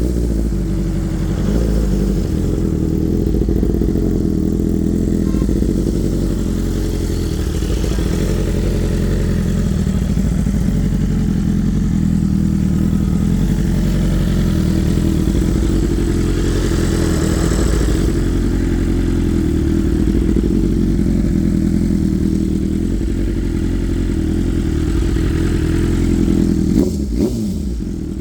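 BMW S1000RR inline-four engine breathing through an aftermarket Austin Racing exhaust, idling steadily and loudly. There is a brief sudden change near the end.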